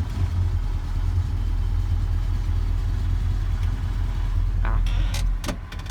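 Square-body pickup's 350 small-block V8 running low and steady, with a few short clicks near the end.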